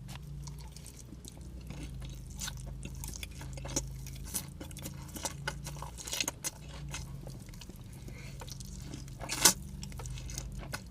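Close-up chewing and wet mouth sounds of someone eating loaded fries, with many small clicks and smacks and one sharper click about nine seconds in, over a low steady hum.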